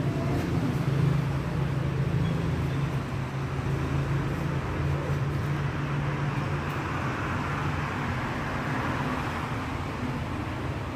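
Steady traffic noise: the continuous drone and rumble of vehicle engines and tyres on the road.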